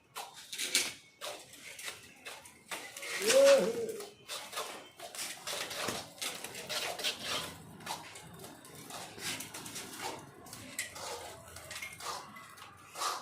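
Steel plastering trowels scraping and clinking on wet cement mortar and a metal mortar pan, in irregular short strokes. A brief, louder pitched call cuts in about three and a half seconds in.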